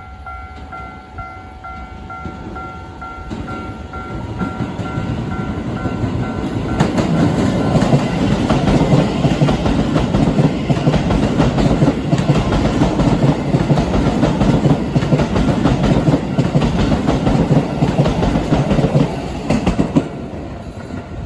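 A Japanese level-crossing alarm rings a steady repeated tone, and about seven seconds in a Keisei 3000 series electric train starts passing over the crossing. Its wheels clatter over the rail joints for about thirteen seconds, then the sound eases off near the end.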